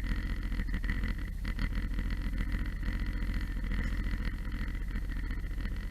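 Car running on the road as picked up by a dash cam inside the cabin: a steady low engine-and-road rumble with a faint steady whine above it.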